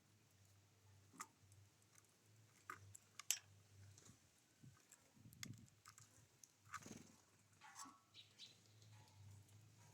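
Small wild birds at a feeder making faint, scattered clicks and taps, the loudest about three seconds in.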